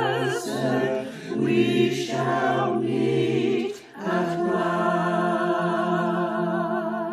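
Choir singing long held chords with vibrato, with a short break about four seconds in before a final sustained chord.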